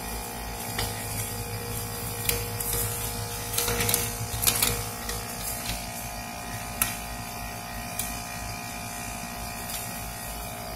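Steady electric hum and buzz of a running rooftop air conditioning unit, with scattered rustles and clicks of hands handling parts and packaging, busiest about four seconds in.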